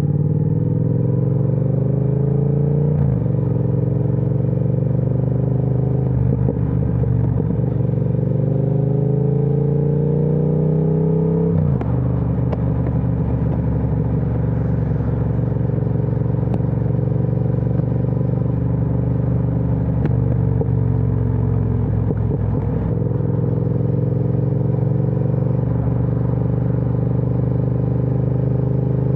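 Triumph Speed Twin 1200's parallel-twin engine through an aftermarket Vance & Hines exhaust. It accelerates through the gears, with the pitch rising and dropping at three upshifts in the first dozen seconds, then cruises at a steady engine speed with a couple of brief throttle dips.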